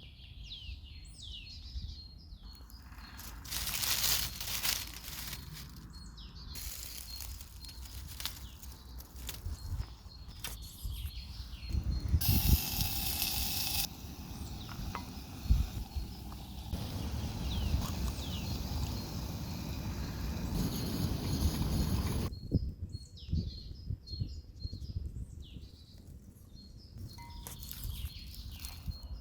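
Forest songbirds chirping and singing. For most of the middle, cut-together stretches of cooking noise from a small camping stove and pan cover them; the birdsong is heard clearly again near the end.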